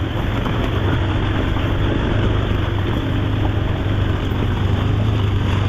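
Off-road vehicle engine running steadily at low revs, with a constant low hum and no revving.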